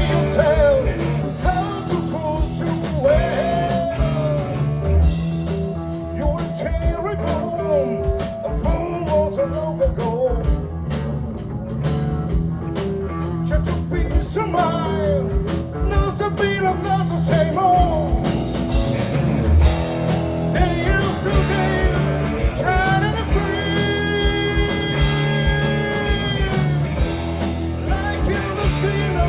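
A band playing an upbeat rock-blues number. Drums and bass keep a steady beat under a lead line with bending notes, and long held notes come near the end.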